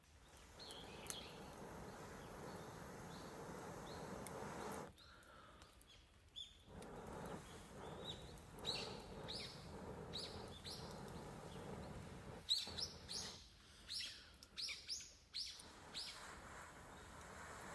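Small birds chirping in short repeated calls, thickest in the second half, over a low steady hiss from a wood campfire burning, with an occasional sharp pop.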